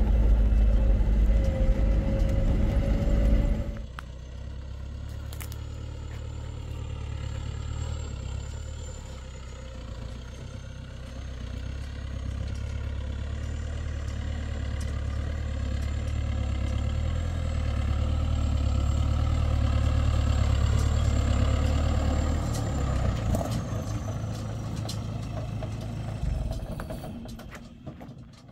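A vehicle engine running steadily. The sound drops suddenly about four seconds in, carries on at a lower level with a faint high whine above it, and fades out near the end.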